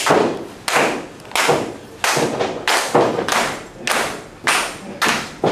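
A steady run of loud thuds or slaps, about one every two-thirds of a second, each echoing briefly, typical of rhythmic stomping or slapping on a wrestling ring or unison clapping.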